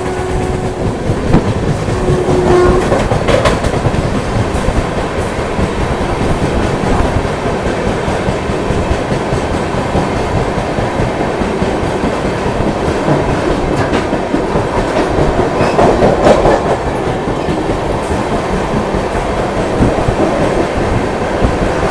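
Passenger train running along the track, heard from on board: a steady rumble of wheels on rail with the clickety-clack of wheels crossing rail joints, and a few sharp clicks over the track.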